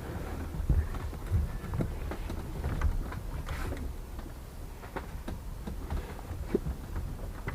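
Scattered light knocks and clicks of hands and tools working on a car, over a steady low rumble.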